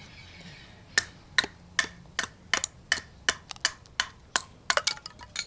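Wood being chopped into thin kindling sticks with a blade: a quick series of sharp knocks, about two or three a second, starting about a second in.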